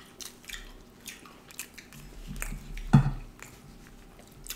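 Close-miked chewing and wet mouth sounds from eating duck curry with rice-flour flatbread: scattered lip smacks and clicks, with one louder smack about three seconds in.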